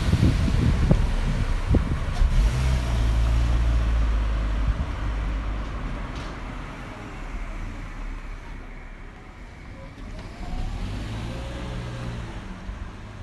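A motor vehicle passing at low speed, its low engine hum strongest a few seconds in and then fading away, with a second, softer swell near the end. Wind buffets the microphone at the start.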